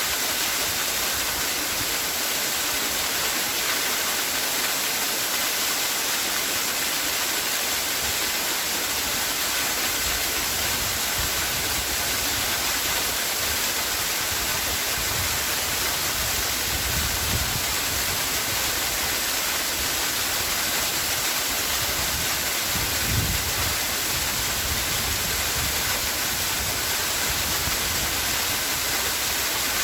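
A waterfall pouring steadily: an even, hissing rush of falling water, with occasional deeper rumbles underneath.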